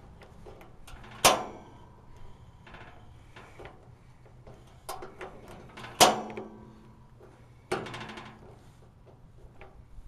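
Piezo igniter of a propane heater's self-lighting pilot snapping three times, with sharp clicks about a second in, about six seconds in and about eight seconds in, each with a short ringing tail. The pilot fails to catch.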